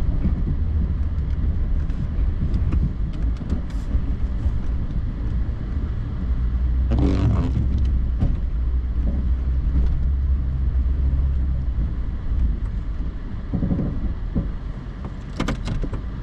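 Vehicle engine running with a steady low drone. There is a brief clatter about seven seconds in and another near the end.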